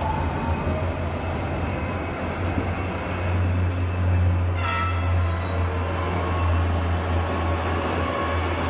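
Tram running on street track: a steady low rumble that swells slightly partway through, with a short, sharp sound of several tones together about halfway through.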